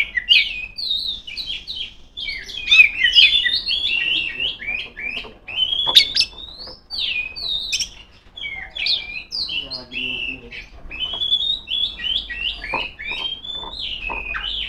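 Oriental magpie-robin (kacer) singing a fast, varied song of sharp whistled notes, glides and chatters, with a few short pauses.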